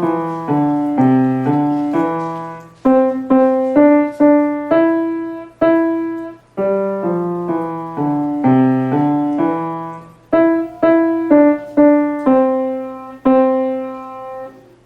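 Piano played by a child: a simple tune of separate notes and chords over bass notes, each note dying away, ending just before the close.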